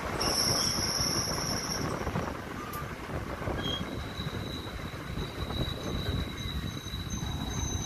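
Train running along the rails: a continuous rumble of wheels on track with thin, steady high-pitched squealing from the wheels, one squeal over the first couple of seconds and another starting about halfway through.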